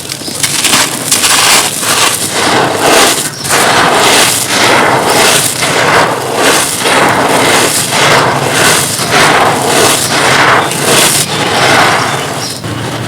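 Dry, dusty crumbly stone material being crushed: a dense, loud run of crunching and crackling that swells about once a second with each squeeze.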